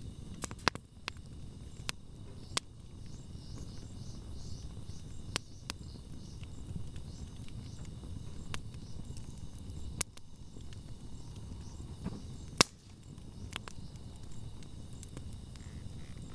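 Wood campfire burning, with a low steady rumble and sharp crackles and pops scattered through it; the loudest pop comes about twelve and a half seconds in.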